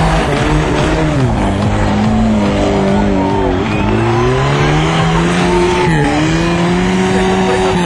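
Rally car engine running hard as the car slides through a loose dirt corner. The engine note drops about a second in, dips again near the middle and then climbs.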